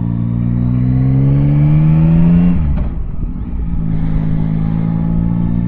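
Yamaha Tracer 9's 890 cc inline-three engine pulling under throttle, its pitch rising steadily. About two and a half seconds in the note breaks off and drops, and after a second or so it settles at a steady note.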